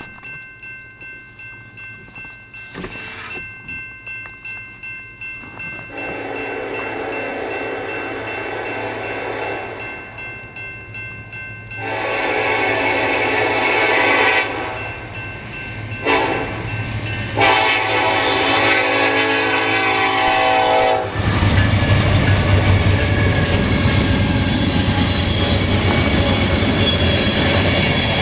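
A Norfolk Southern freight train approaches a grade crossing, with the crossing bell ringing steadily. The locomotive's horn sounds the crossing signal, two long blasts, a short one and a long one. Then the lead diesel locomotive passes close by, its engine running loudly over the rolling wheels.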